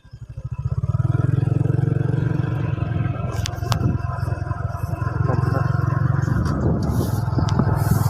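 Motorbike engine running, rising in level about half a second in and then holding steady, with a couple of sharp clicks partway through.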